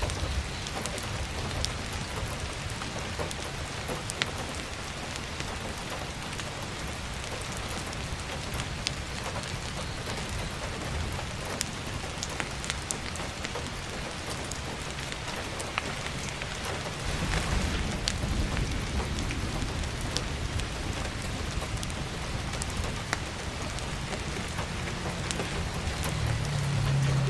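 Heavy rain drumming steadily on an attic skylight, scattered with sharp ticks and crackles from a wood stove fire. A low rumble swells up about two thirds of the way in and again near the end.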